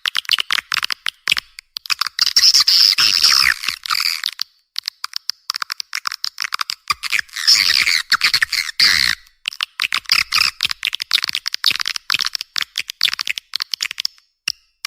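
Swiftlet lure call: dense, high-pitched chittering twitters mixed with rapid trains of clicks, in bursts with short breaks, meant to attract swiftlets to a nesting house.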